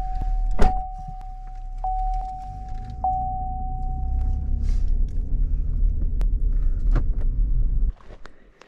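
Pickup truck engine running with a low rumble. A steady high electronic warning tone sounds for about the first half, with a loud knock about half a second in and a few lighter clicks after it. The rumble stops abruptly near the end.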